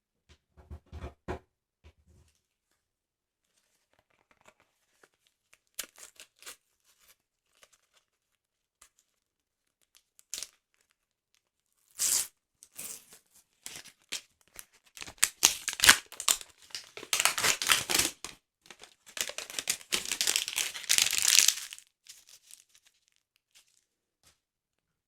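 Sticker-album paper being torn in long, slow, crackling rips over about ten seconds, loudest in the middle of that stretch. Before it there are a few soft handling knocks and light paper ticks.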